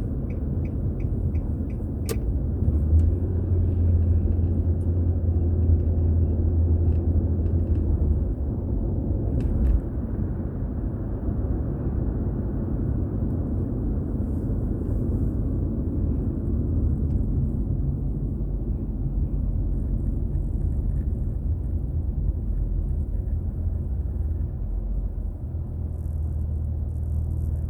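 Car being driven on city roads: a steady low rumble of tyres and engine, with no sharp sounds above it.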